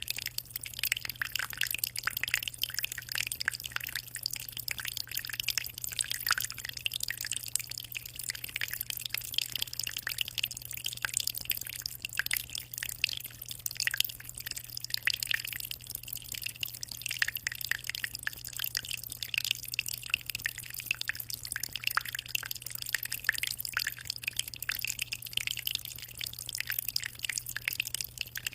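Aquarium water splashing and dripping continuously, a dense patter of small drops over a low, steady hum.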